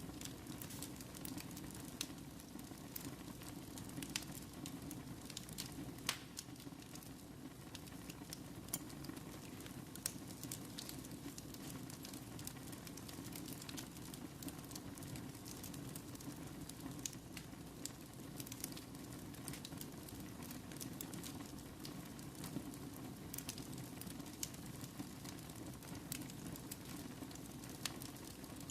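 Fireplace fire burning: a steady low rush of flames with frequent sharp, irregular crackles and pops.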